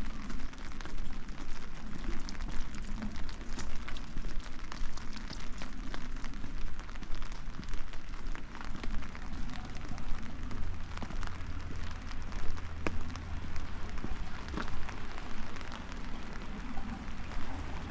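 Steady rain falling, with many individual drops ticking sharply close to the microphone over an even hiss.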